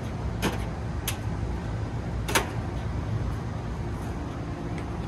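Three short sharp clicks, about half a second, a second and two and a third seconds in, as the technicians handle the panels and screws of the condensing unit during reassembly, over a steady low rumble.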